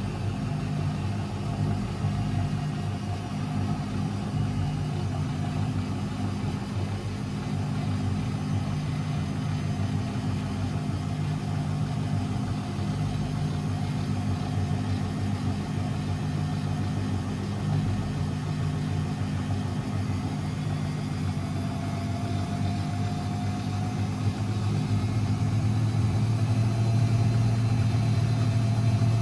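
Constructa Energy 1000s washing machine running with a steady motor hum. It grows somewhat louder and deeper in the last few seconds.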